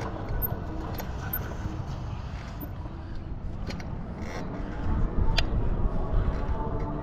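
Wind rumbling and buffeting on the microphone while cycling, growing stronger about five seconds in, with a single sharp click a little after.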